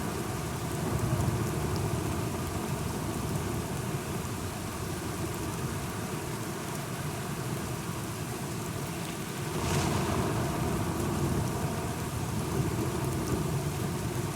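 Steady rain with a low rolling rumble of thunder, swelling louder about ten seconds in.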